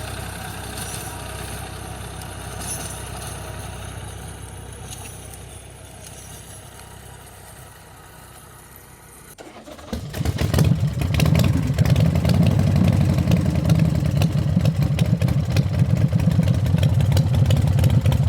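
A small engine running quietly at first, then, a little past halfway, it turns loud with a fast, even beat and keeps running steadily.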